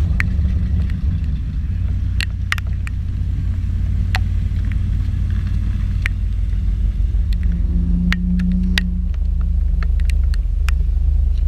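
Car engine running with a steady low rumble, with scattered light clicks and ticks and a brief low hum about eight seconds in.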